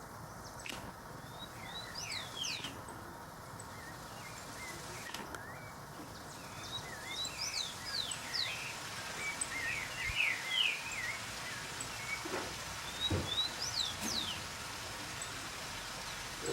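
Small birds chirping: many short, quick, high sweeping notes, busiest in the middle, over a steady outdoor background hiss. Two brief low sounds come about twelve and thirteen seconds in.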